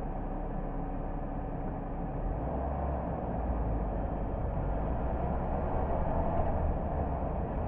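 A car driving along a road: steady low engine and tyre rumble with road noise, swelling slightly partway through.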